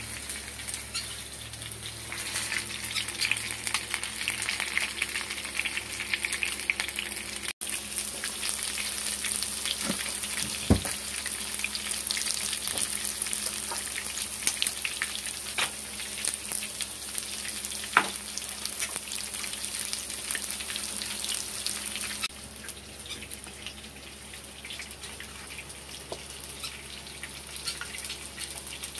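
Bread-crumb-coated chicken pieces frying in oil in a pan: a steady sizzle full of fine crackles, with a few sharper pops, the loudest about 11 and 18 seconds in. The sizzle drops to a quieter level about 22 seconds in.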